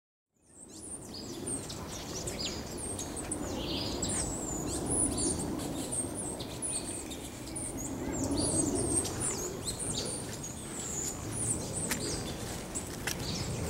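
Several birds chirping and calling, a steady stream of short high chirps and quick falling notes, over a low background rumble. It fades in just after the start.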